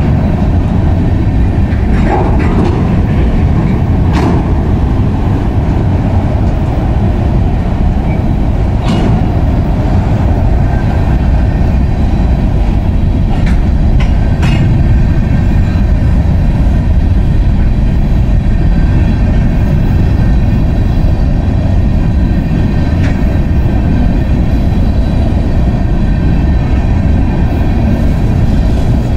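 Freight cars rolling past close by: a loud, steady rumble of steel wheels on the rails, with a few sharp clicks and clanks from wheels and couplers scattered through it.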